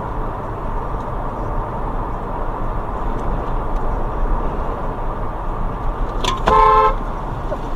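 Steady road noise of a car driving, with one car horn honk of about half a second near the end.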